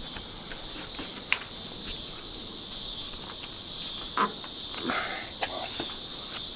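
Steady insect chorus, a high buzzing drone that wavers slightly in pitch, with a few light clicks and taps scattered through it.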